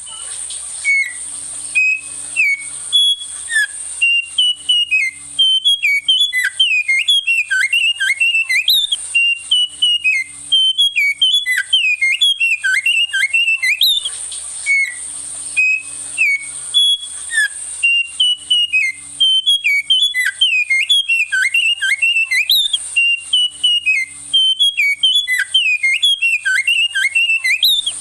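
A small songbird's loud, fast whistled song: quick varied notes with many downward swoops, in a phrase that starts over about halfway through as an identical repeat. A thin, steady high tone runs underneath.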